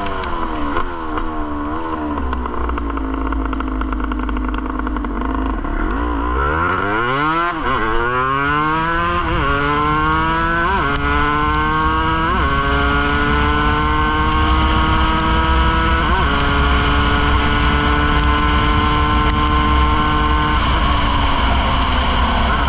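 Yamaha DT200 two-stroke single-cylinder engine on the move. Its note wavers, sits low for a few seconds, then climbs hard up through the gears, dropping sharply in pitch at each of several shifts, and holds a steady cruising note near the end, over a low wind rumble on the microphone.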